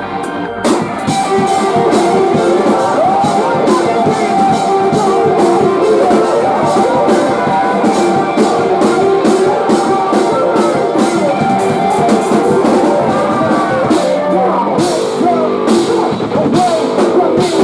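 Post-hardcore band playing live, with drums and guitars. A quieter passage gives way about a second in to the full band playing loud, with rapid drum and cymbal hits.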